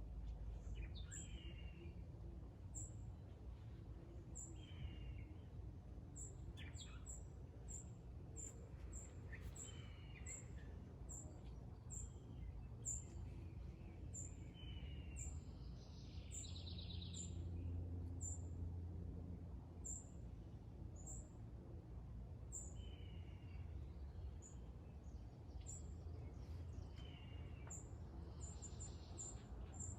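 Several small birds calling: short, high, thin chirps repeating every second or so, with scattered lower sweeping calls in between, over a steady low background hum.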